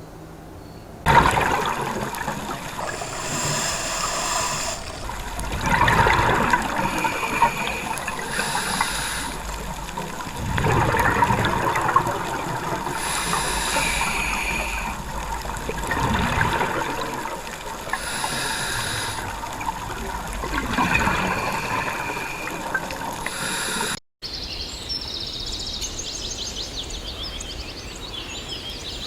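Water running and splashing, swelling and easing about every five seconds, with shorter higher sounds over it. Near the end it cuts abruptly to softer noise with bird chirps.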